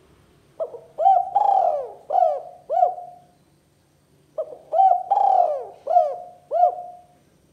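Spotted dove (tekukur) cooing: two phrases, each a short note, a longer drawn-out coo and three short coos, with a pause of about a second between the phrases.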